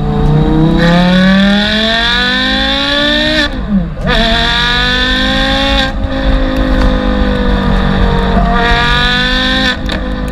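High-performance car engine revving hard, its pitch climbing, then dropping sharply about three and a half seconds in before pulling at high revs again and climbing once more near the end.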